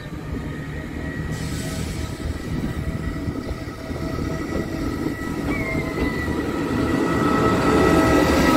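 Diesel train approaching over the level crossing, its engine and wheels on the rails growing steadily louder.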